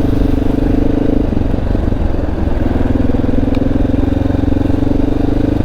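Honda XR650L's single-cylinder four-stroke engine running under way at a steady pace. It eases off for about a second a little over a second in, then holds steady again.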